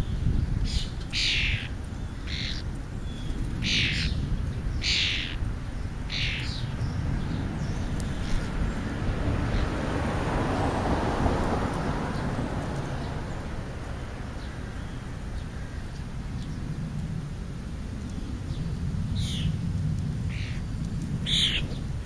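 Small black and brown birds feeding on a pile of scraps, giving a string of short, high, downward calls about once a second. The calls go quiet through the middle and come back near the end, over a steady low wind rumble on the microphone.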